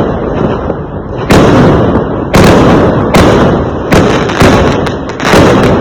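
Fireworks going off: a string of sharp, loud bangs, about six in under six seconds, at uneven gaps, with a continuous rumble and crackle between them.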